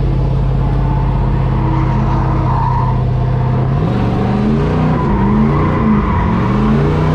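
Drift truck's engine held at steady revs, then from about four seconds in revved up and down several times as the driver works the gas to get the rear wheels spinning.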